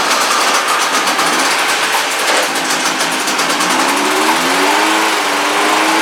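1972 Sno-Jet snowmobile's Hirth two-stroke engine running loud through its newly welded exhaust, its revs rising and falling about two-thirds of the way in.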